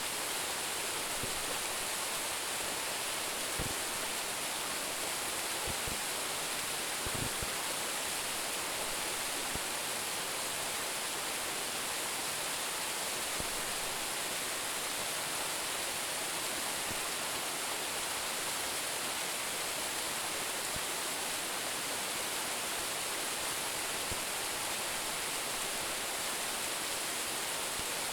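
A waterfall with a drop of about 10 metres, its water falling in a steady, even rush. A few faint low bumps come in the first eight seconds.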